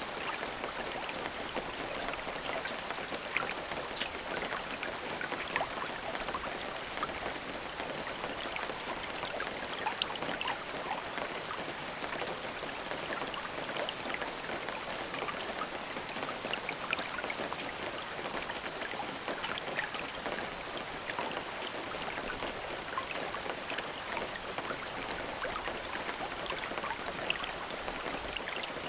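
Steady rain falling, a constant hiss with many small drops pattering and ticking on a surface.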